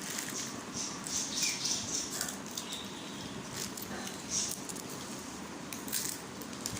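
A parrot nibbling and crunching a snack: irregular small crisp crackles and clicks.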